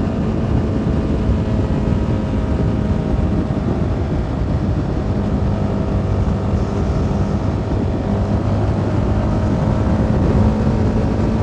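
CFMoto 300NK motorcycle's single-cylinder engine running steadily at cruising speed, over a constant rush of wind and road noise.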